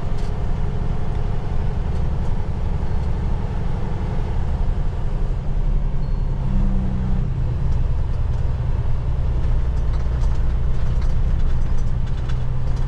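Semi-truck diesel engine droning steadily, heard from inside the cab while driving; the engine note changes about six seconds in.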